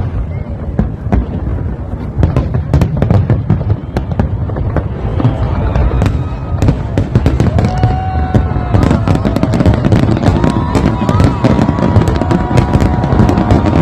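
Fireworks going off continuously: a dense stream of crackling pops and bangs over a low rumble. From about eight seconds in, a few steady high whistling tones sound over the crackle.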